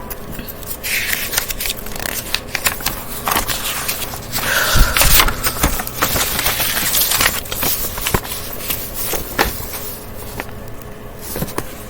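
Paper picture-book pages being turned and handled close to the microphone: irregular rustling and scraping with scattered sharp clicks.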